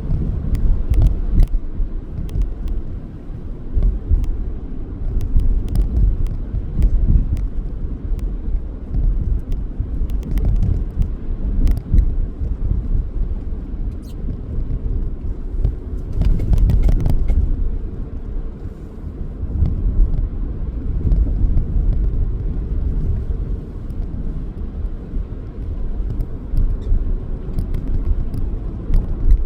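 Car driving: a steady low rumble of road and engine noise, with scattered small clicks and knocks.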